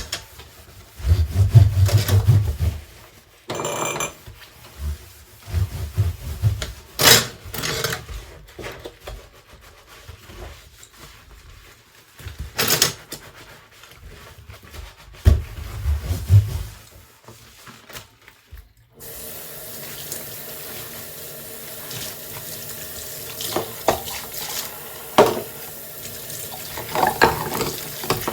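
Dishes being washed by hand at a kitchen sink: scattered clinks and knocks of dishes and utensils being handled. About two-thirds of the way through, the tap comes on and runs steadily while dishes clink under it.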